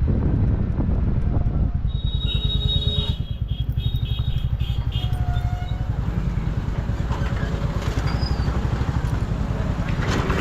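Motorcycle engine running steadily while riding, heard from the rider's seat with wind buffeting the microphone. Brief high-pitched tones sound about two seconds in.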